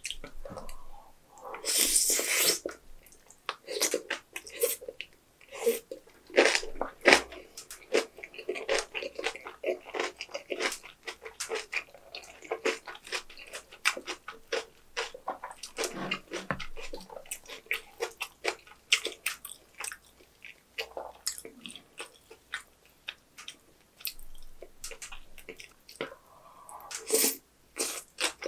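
Close-miked chewing of napa cabbage kimchi with white rice: a steady run of wet crunches and mouth clicks, with a louder bite about two seconds in and again near the end.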